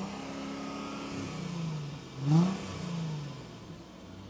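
2005 Chrysler Crossfire's Mercedes-built 3.2-litre V6, heard at the exhaust tips, being revved: the engine falls back from a rev at the start, is blipped sharply about two seconds in, which is the loudest moment, then drops back to a smooth idle.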